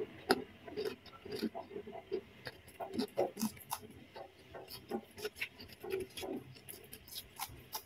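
Close-miked chewing: irregular soft crunches and wet mouth clicks of someone eating, in the style of a mukbang eating recording.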